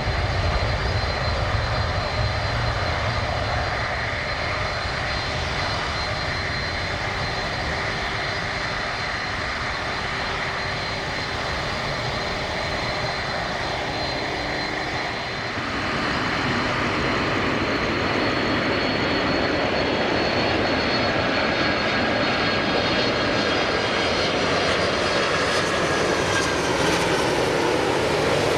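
Jet airliner engines running, a steady rush with faint whines over it. About halfway through the sound changes abruptly and grows a little louder, with new high whines near the end.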